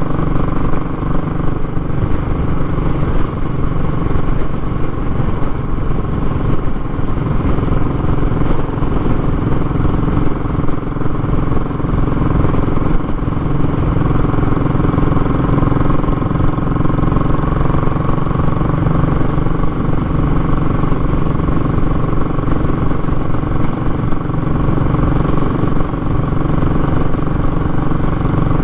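Royal Enfield Classic 500's 499 cc single-cylinder engine running steadily through a short, raw muffler, with no revving up or down.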